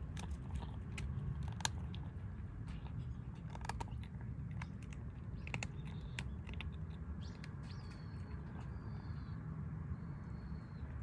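Stray kittens chewing and crunching their food, with scattered sharp crunches and clicks. Several short, high-pitched calls come in the second half.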